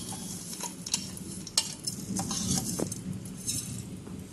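Broken wheat sizzling as it is poured into hot ghee in an aluminium pot, with a metal spoon scraping and clinking against the bowl and pot rim a few times.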